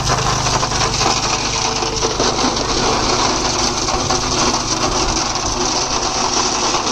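Diesel engines of a backhoe loader and tractor running steadily, with a dense, rapid mechanical clatter over the low engine note.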